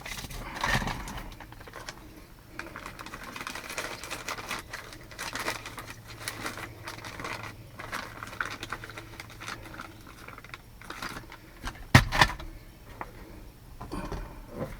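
Irregular light clicking and rattling of small hard parts being handled, over a faint steady low hum, with one sharp knock about twelve seconds in.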